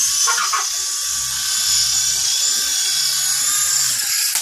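Small remote-control toy helicopter in flight, its electric rotor motor running with a steady high-pitched whine.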